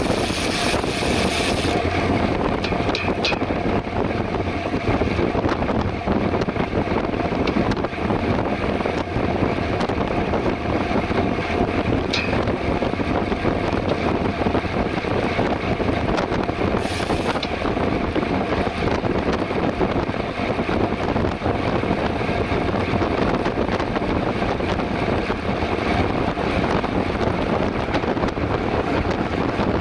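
Wind rushing over the microphone of a camera riding on a mountain bike at race speed, mixed with steady tyre and road noise, with a few faint clicks.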